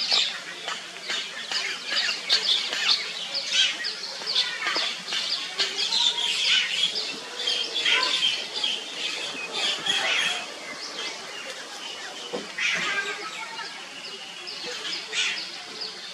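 Birds chirping in the surrounding trees: many short, high calls overlapping thick and fast, growing sparser and quieter in the last few seconds.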